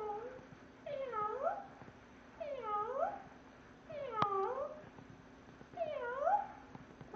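Parrot imitating a cat's meow, repeating it about every second and a half: the tail of one call at the start, then four meows, each dipping and then rising in pitch. A single sharp click about four seconds in.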